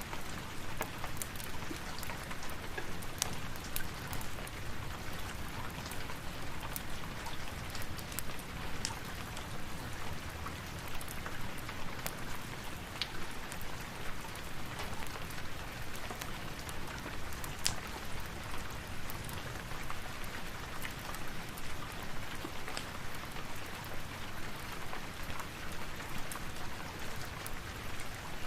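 Steady rain falling, an even hiss dotted with many scattered sharp clicks.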